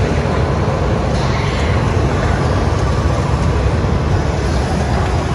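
Steady rumble of vehicle or road noise.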